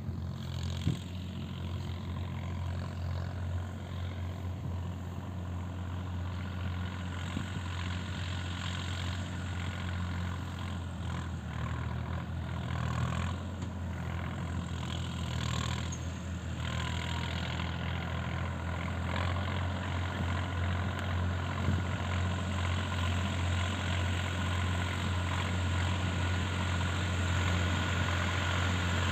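Sonalika 50 hp four-wheel-drive tractor's diesel engine running steadily, a low even hum that grows slowly louder toward the end.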